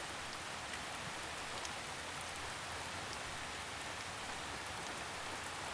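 Steady rain falling on forest leaves, an even hiss with faint scattered drips.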